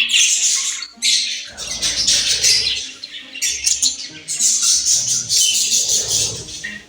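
Pet budgerigar chattering and squawking in a rapid run of short, scratchy high-pitched calls, broken by brief pauses.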